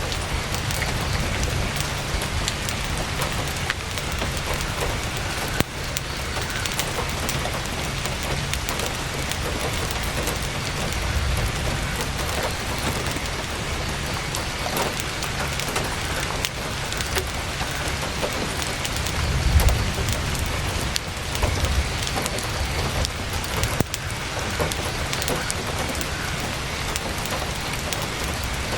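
Heavy rain falling steadily on a tent's fabric, a dense patter of many small drop impacts. A low rumble swells about two-thirds of the way through.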